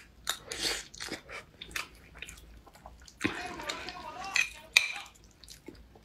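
Close wet chewing and mouth smacks of someone eating a mouthful of rice and soft tofu in sauce, in many short sharp clicks. About halfway through, a metal spoon stirs and scrapes in the bowl.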